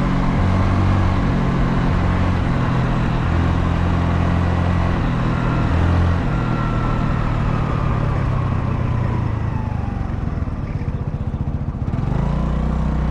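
Honda Navi's small single-cylinder engine running while the bike is ridden along the road. The engine note holds and shifts steadily, turns ragged and eases off about ten seconds in, then picks up again near the end.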